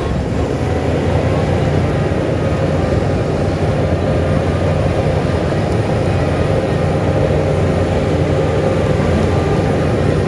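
Heavy diesel engine of earthmoving machinery running steadily and loud, with a deep low rumble.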